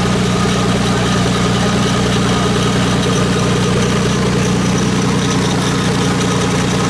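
Toyota 2JZ-GTE VVT-i turbocharged straight-six idling steadily, freshly swapped into the car and running after its first start.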